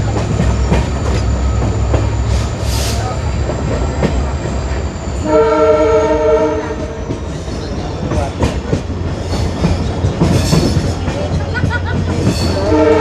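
Diesel-hauled passenger train running, with a steady low hum from the WDP4D locomotive's EMD two-stroke V16 engine under the rattle of the wheels. A multi-note train horn sounds for about a second and a half midway, and again near the end.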